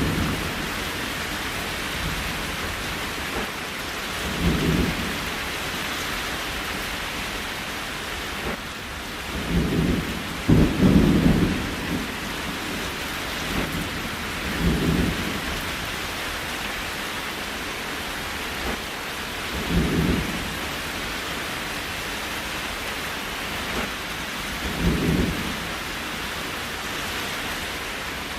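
Steady rain hiss, with short low rumbles that come back about every five seconds.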